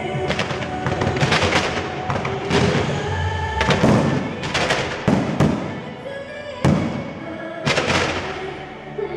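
Fireworks bursting in the sky, a quick series of sharp bangs, some in pairs, with music playing underneath.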